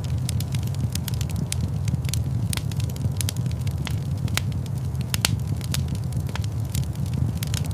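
Wood fire burning in a fireplace, crackling with irregular sharp pops several times a second over a steady low rumble.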